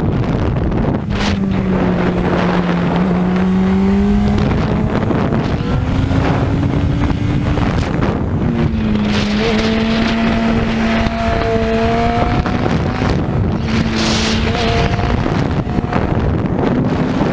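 Racing motorcycle engine at speed, its pitch climbing and then dropping with each gear change, under heavy wind noise on the microphone.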